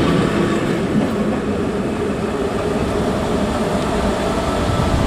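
ET42 electric locomotive and its train moving away after passing. A steady hum and rumble from the train slowly gets quieter.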